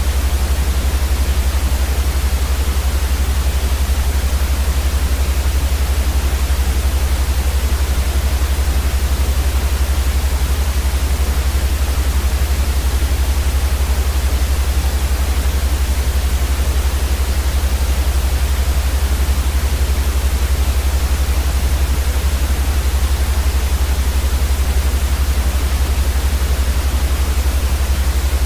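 Steady, unchanging white noise: an even hiss across all pitches, with a strong deep rumble underneath.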